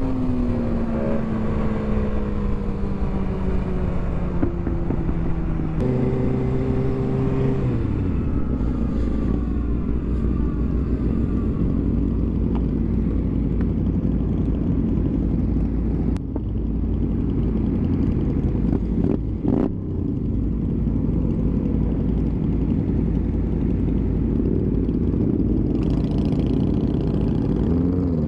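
Motorcycle engine while riding: its pitch falls as it slows over the first few seconds, steps up briefly about six seconds in and drops again, then a steady rush of wind on the microphone with the engine low beneath it, the engine pitch rising again near the end.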